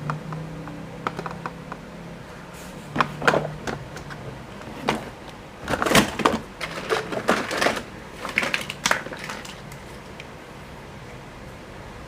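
Plastic toy vehicles clattering and knocking against each other as they are handled, with a busy cluster of sharp clicks in the middle.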